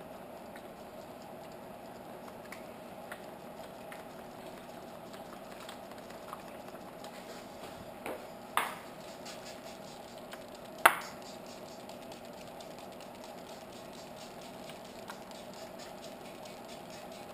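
Wet sanding a primed motorcycle gas tank by hand with 600-grit paper on a sanding block: soft, wet rubbing strokes over a steady hum. Two sharp knocks, one about halfway through and a louder one a couple of seconds later.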